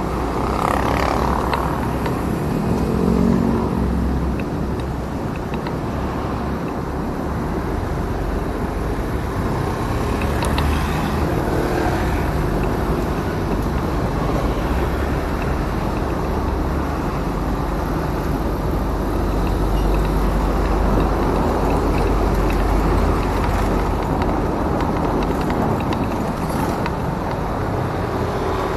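Riding a motorcycle through traffic: steady wind rush on the microphone with the bike's engine and passing road traffic underneath.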